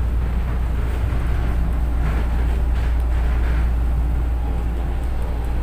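Interior running noise of a light-rail (LRT) train car: a steady, loud low rumble with rattling noise over it.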